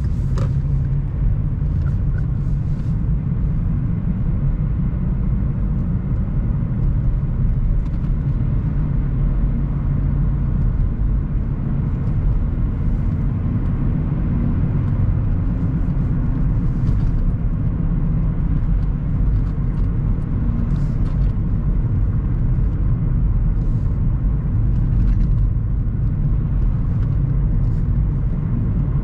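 A car driving along, a steady low rumble of engine and road noise with faint occasional ticks.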